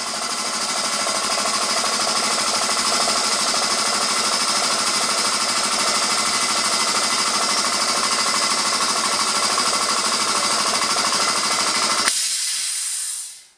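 Air compressor running steadily as it refills its tank, then cutting out about twelve seconds in on reaching its 125 psi maximum pressure, leaving a short hiss that fades away.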